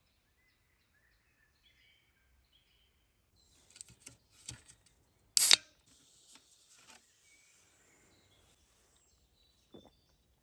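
Faint bird chirps, then handling noises: a few clicks and knocks with one sharp, loud click about halfway through and a smaller one near the end.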